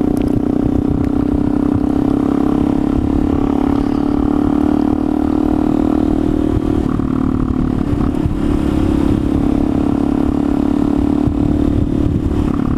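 Motorcycle engine running at a steady speed under way, echoing off the walls of a road tunnel.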